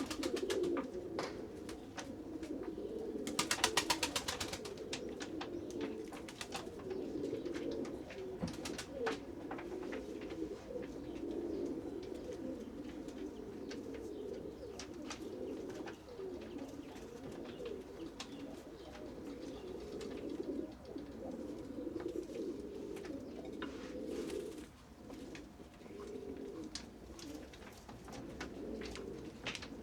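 A flock of pigeons cooing continuously, many overlapping coos at once. Scattered sharp clicks and taps run through it, with a loud run of rapid clicks about three seconds in.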